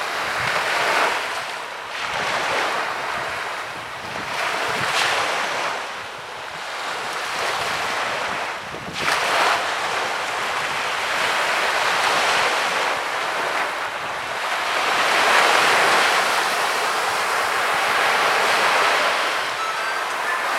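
Sea waves breaking and washing up on a beach, the surf swelling and easing every few seconds, with a sharper wash about nine seconds in.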